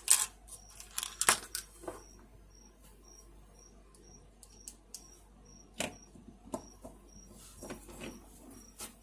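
Scattered clicks and clacks of small parts and tools being handled while a box fan's motor is taken apart, sharpest at the start and about a second in, then sparser.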